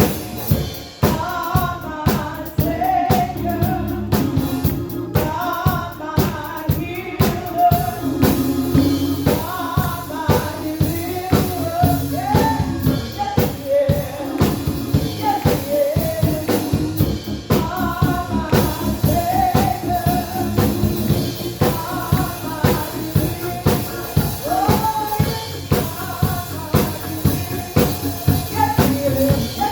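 Gospel praise-and-worship song: voices singing over a drum kit keeping a steady beat.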